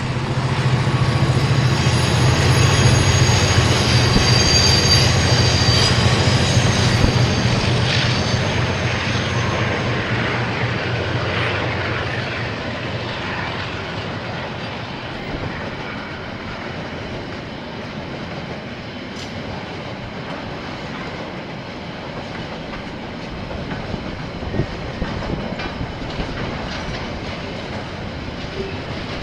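KiwiRail diesel train passing close by. A heavy low engine drone with high wheel squeal is loudest in the first several seconds, then gives way to the steady rolling and clatter of wheels on the rails, slowly fading.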